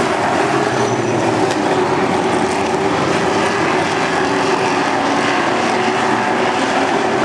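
Racing truck engines running steadily on track, a dense, continuous engine noise.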